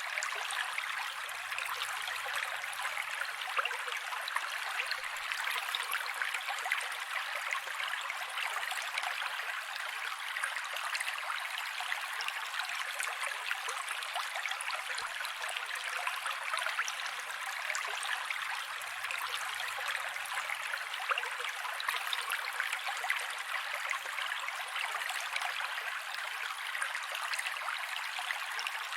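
Mountain creek water flowing and splashing over rocks: a steady rushing with fine trickling crackle, unchanging throughout.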